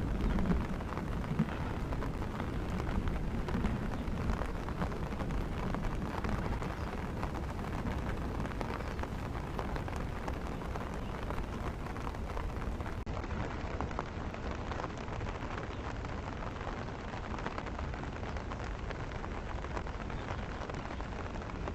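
Steady heavy rain falling, with a low rumble in the first few seconds that fades away.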